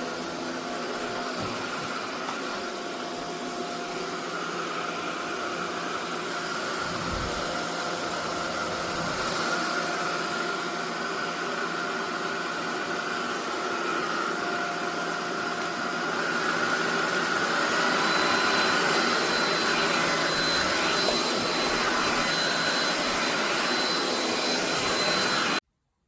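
SunSare X11 cordless stick vacuum running steadily with a whirring motor whine, growing slightly louder over time, then cutting off suddenly near the end.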